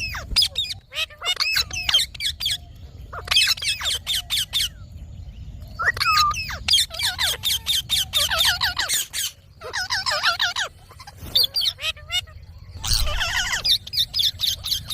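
Indian ringneck parakeet squawking in shrill, rapid runs of quick repeated notes, several bursts broken by short pauses.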